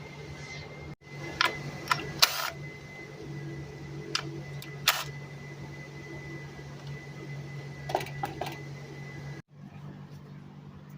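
A 2004 Honda Civic's engine idling with a steady hum while it has a cylinder misfire, with several sharp clicks and taps of handling over it.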